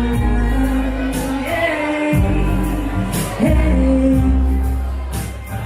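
Live band playing the slow intro of an R&B song: long, deep bass notes and held chords, cymbal strikes now and then, and a voice singing over it. It softens near the end.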